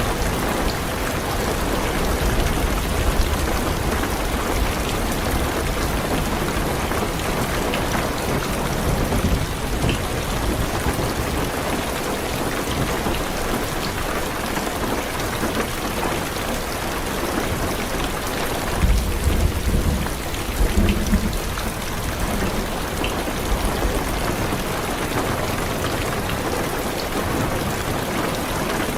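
Heavy rain falling on a car's roof and windows, a steady hiss, with low rolls of thunder at the start and again a little past the middle.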